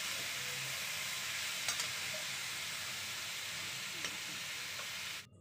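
Sliced ivy gourd sizzling in hot oil in a kadai while being sautéed and stirred, a steady frying hiss with a couple of light clicks. The sizzle cuts off suddenly near the end.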